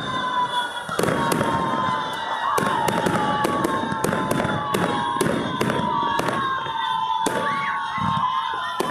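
Fireworks going off: a rapid string of sharp bangs and crackles, several a second, over a steady high whistle that slowly falls in pitch, with a crowd's voices underneath.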